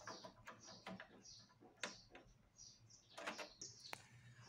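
A quiet room with faint, short bird chirps in the background and a few soft clicks from small printer parts being handled.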